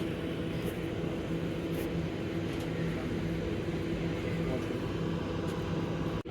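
Greater Anglia Class 720 electric train humming steadily, a low drone with a few held tones and no change in pitch.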